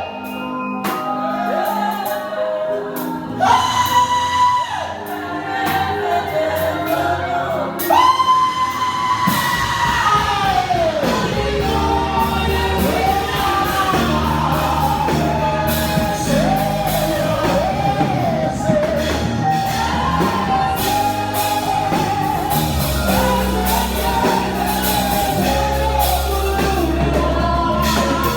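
Live gospel music: a male lead singer holds long, high sung notes over the band, with shouts, and a fuller bass and drum groove comes in about ten seconds in.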